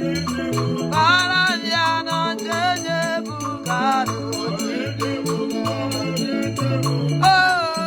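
Upbeat praise music played by a band: a repeating bass line and a bending melody line over a steady, fast shaker or rattle rhythm.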